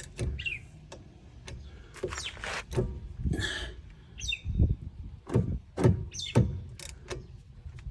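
GearWrench hand ratchet and socket turning a brake caliper bolt loose: a string of irregular clicks and knocks. A few faint bird chirps are heard behind it.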